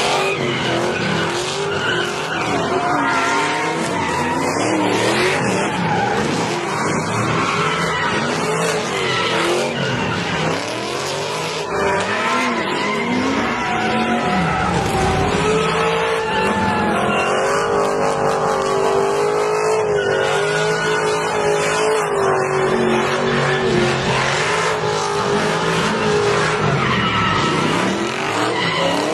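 Sports car doing a burnout: the engine revs hard while the rear tires spin and squeal in a continuous, wavering screech.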